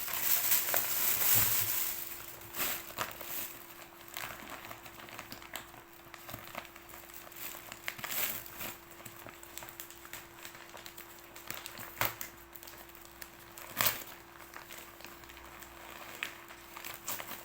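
Plastic and paper gift packaging being handled, crinkling and rustling, most densely in the first couple of seconds, then in scattered crackles and clicks, one sharp click near the end. A faint steady hum sits underneath.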